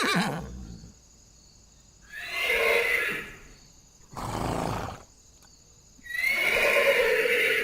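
Horse neighing in several separate calls. A quavering whinny falls in pitch and ends about a second in, another neigh comes about two seconds in, a short breathy noise follows about four seconds in, and a longer neigh runs near the end.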